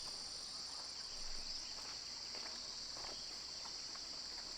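Steady, shrill chorus of crickets and other insects, an unbroken high-pitched trill with one thin higher note pulsing above it.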